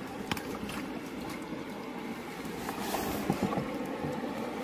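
Steady rush of river water flowing over stones, with a few faint knocks.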